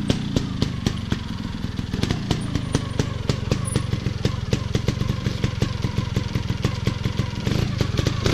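Motorcycle engine running at low revs, a steady drone with a string of sharp pops, roughly four to six a second.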